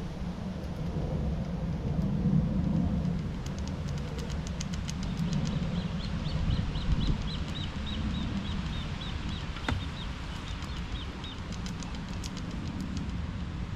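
Low rumbling noise, with a small bird giving a run of high repeated chirps, about three a second, from about five seconds in until about eleven.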